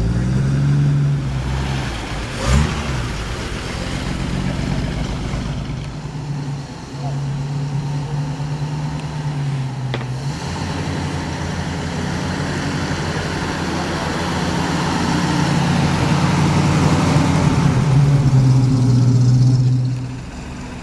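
Several vintage cars' engines running at low speed as the cars drive slowly past one after another, the engine note rising and falling as each pulls away. A single sharp thump about two and a half seconds in.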